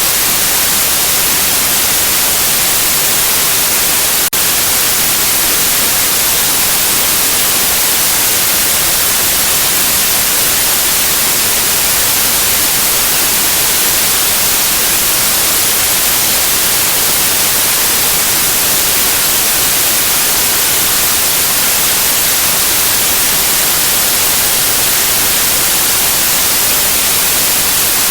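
Continuous synthetic white noise, a steady, even hiss with the most energy in the high range, played as a baby sleep and colic-calming sound. One brief tick about four seconds in.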